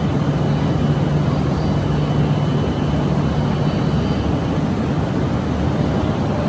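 Steady mechanical hum of a Shinkansen train standing at the platform, a low droning tone under an even rushing noise that neither rises nor falls.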